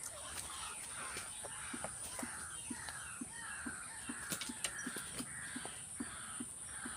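An animal calling over and over, a rasping call repeated about twice a second, over a steady high insect drone.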